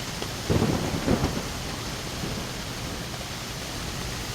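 Steady heavy rain in a storm, with a short burst of low rumbling thuds about half a second in.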